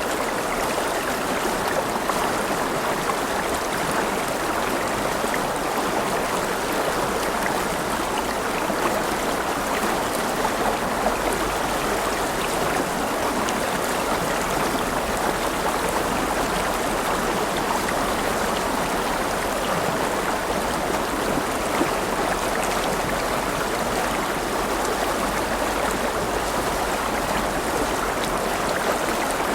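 A river or stream flowing steadily over stones, a constant rushing and babbling of water.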